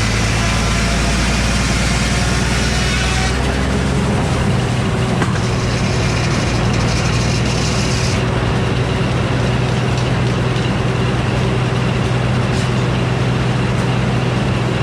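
Frick sawmill running: its power unit and circular head saw run at a steady speed. A dense higher rush of noise, likely the blade in the cut, drops away about three seconds in, and more of the high hiss ends about eight seconds in.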